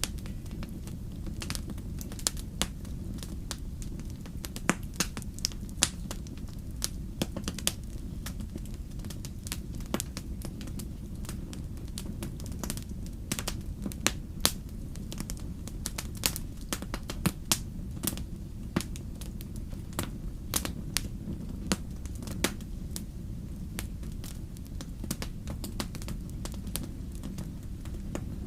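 Wood fire crackling: irregular sharp pops and snaps, several a second at times, over a steady low rumble of the burning fire.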